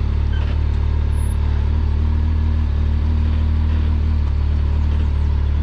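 Side-by-side UTV engine running steadily at low revs, a constant low hum that holds the same level throughout.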